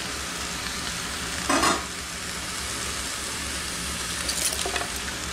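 Vegetables sizzling steadily in an electric skillet. There is a short, louder clatter about a second and a half in, and faint clicks and rustling near the end as cabbage leaves are tipped in from a plate.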